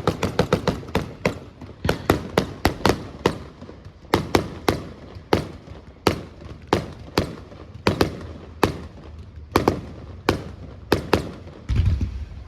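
Fireworks going off in a long, irregular string of sharp cracks, a rapid volley at first, then about two or three a second. Near the end the cracks stop and a low rumble comes in.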